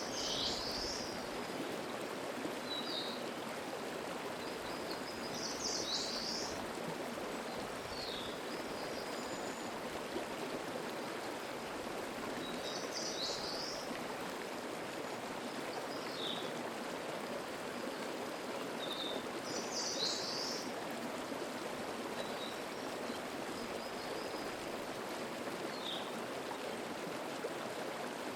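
Mountain stream babbling steadily over rocks, with a songbird repeating a short high phrase about every seven seconds and a few faint chirps in between.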